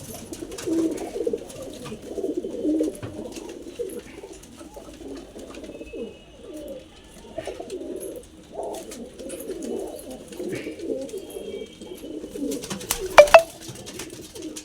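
Pigeons cooing continuously in low, wavering coos, with a single sharp click or knock near the end that is the loudest sound.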